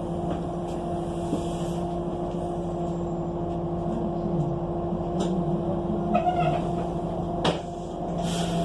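Inside an ENC EZ Rider II transit bus: its Cummins Westport ISL G natural-gas engine and driveline running with a steady hum, a sharp click about seven and a half seconds in and a short hiss near the end.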